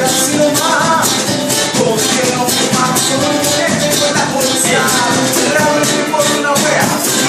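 Live band music: a pitched melody line over a fast, steady percussion rhythm.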